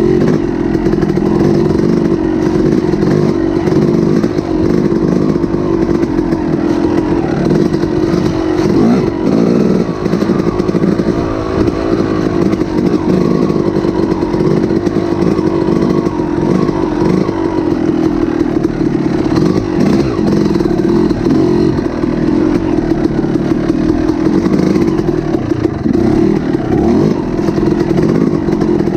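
A small engine running steadily at a fairly constant high speed, its pitch wavering slightly.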